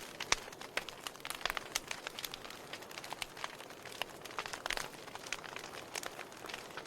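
Fireplace fire crackling, with irregular sharp pops and snaps, several a second, over a soft steady hiss.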